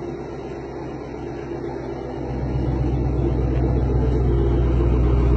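2013 Dodge Challenger R/T's 5.7-litre Hemi V8 rumbling through Hellcat headers, a Hellcat catback and a mid-muffler delete. The rumble is steady, growing louder about two seconds in and staying there.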